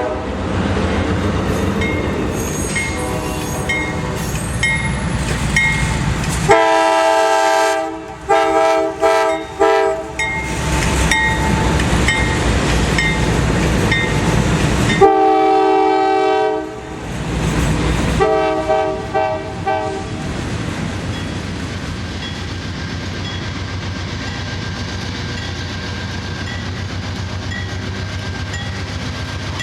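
A passing train with its air horn sounding several blasts: a long blast about a third of the way in, a string of shorter ones, then another long blast and more short ones, over the steady rumble and clatter of the train. A regular high ding about twice a second sounds early and again in the last stretch.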